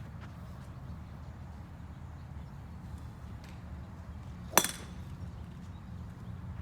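A golf club striking a ball once about four and a half seconds in: a single sharp, ringing click over a steady low rumble.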